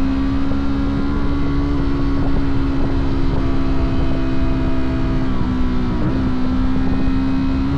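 Fantic Caballero 125's single-cylinder four-stroke engine running at steady revs on the move. The revs dip briefly about five and a half seconds in, then pick up again.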